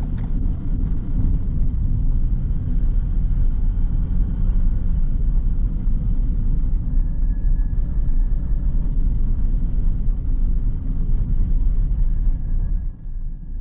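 Car driving, heard from inside the cabin: a steady low rumble of road and engine noise, dipping briefly near the end.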